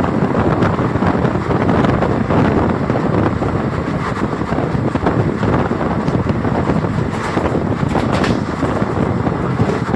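Passenger train running at speed: steady rumble of the coach's wheels on the rails, mixed with rushing wind buffeting the microphone at an open coach door.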